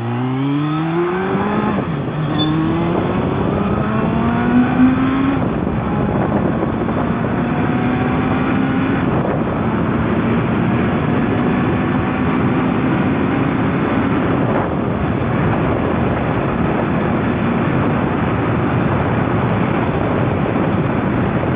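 Suzuki Bandit 1200S inline-four motorcycle engine accelerating hard, its pitch climbing and dropping back at each upshift, three upshifts within the first nine seconds or so, then running at a steadier pitch. A loud steady rushing noise runs beneath the engine throughout.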